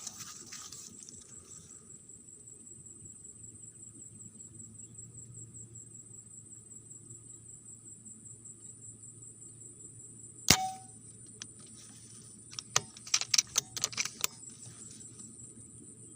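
A single sharp air-rifle shot about ten and a half seconds in, followed a couple of seconds later by a quick run of sharp clicks and taps. Underneath, a steady high-pitched insect drone of crickets from the rice fields.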